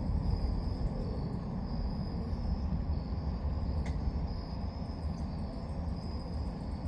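Outdoor night ambience: insects chirping in a high, pulsing trill over a steady low rumble.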